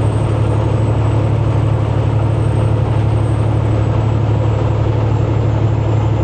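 Semi-truck engine and road noise droning steadily inside the cab while cruising, a constant low hum.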